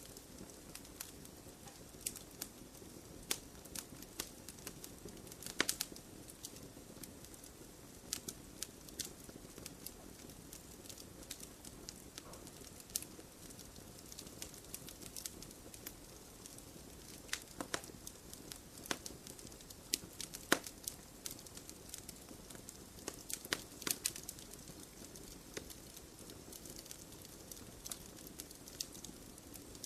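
Wood campfire burning with a soft steady hiss and irregular sharp crackles and pops scattered throughout.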